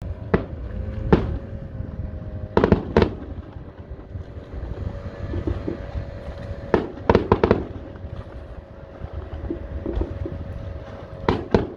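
Fireworks bursting in the sky: sharp bangs, some single and some in quick clusters of three or four, about a second in, near three seconds, around seven seconds and near the end, over a steady low background rumble.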